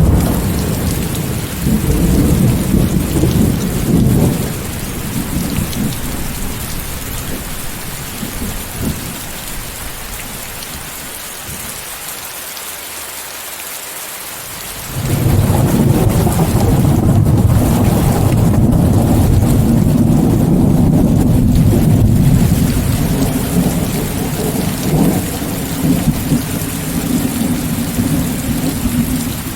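Steady heavy rain with rolling thunder: a rumble at the start fades away, then a sudden loud clap about halfway through rolls on to the end.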